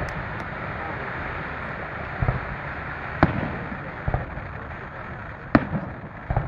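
Fireworks going off: about six sharp bangs at irregular intervals of roughly a second, each followed by a low rumble, over a steady background din.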